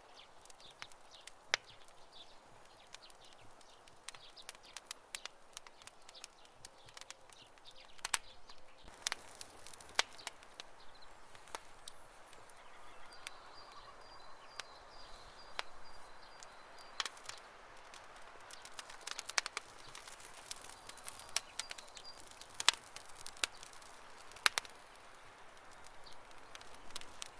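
Wood campfire crackling, with irregular pops and snaps over a soft hiss; a few pops stand out much louder than the rest. A faint thin high whistle sounds for a few seconds around the middle.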